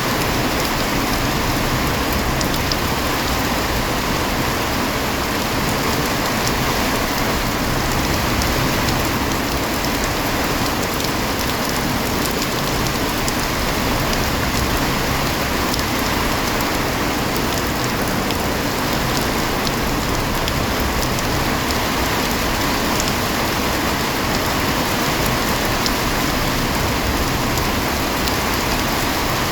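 Rain falling steadily: a dense, even hiss with fine scattered drop ticks and no let-up.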